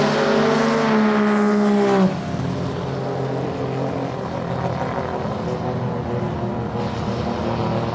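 Twin-turbo V8 drag-car engine running, its pitch falling slowly. About two seconds in it cuts abruptly to a quieter, steady engine note.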